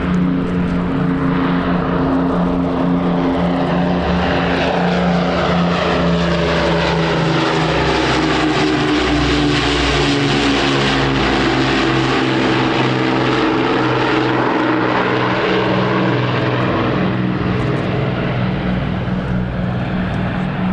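Propeller-driven aircraft engines droning through a low flypast. The engine note is loudest about halfway through, then drops in pitch as the aircraft passes and moves away.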